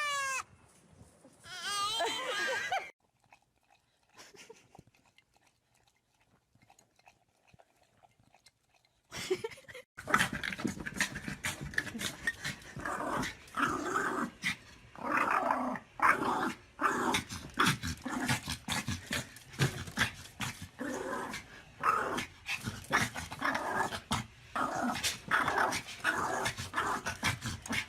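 Dog vocalizing: wavering, howl-like calls in the first few seconds. After several seconds of near quiet, a long run of short growls and grumbles follows.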